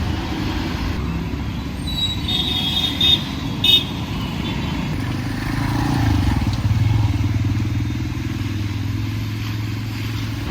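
Road traffic running past: a steady low rumble of engines and tyres, with two short vehicle horn toots about two to four seconds in, and a nearby engine humming steadily from about halfway through.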